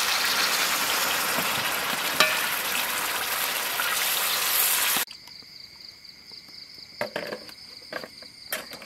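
Water poured into a hot wok of frying pork, hissing and sizzling loudly. About five seconds in it cuts off abruptly, leaving steady high insect chirring with a few light clicks and knocks.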